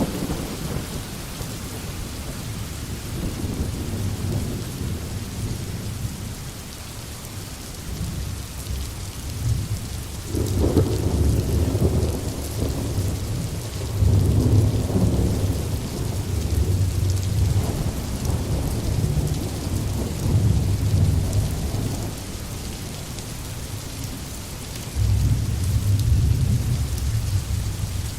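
Steady rain falling, with low rolling thunder that swells in several long rumbles through the middle and again near the end.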